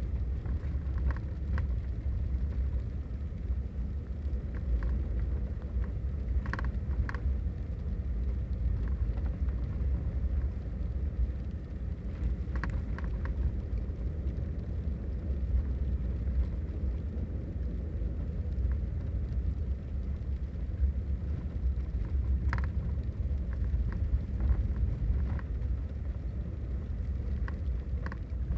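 Storm ambience during a rain and ice storm: a steady low rumble with scattered sharp ticks, as of rain and ice pellets striking nearby surfaces.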